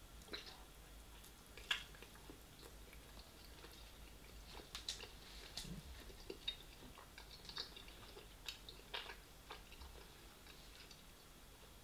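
Faint close-up chewing and gnawing of meat off a Chinese takeaway spare rib held in the hands, with short wet mouth smacks and clicks scattered throughout.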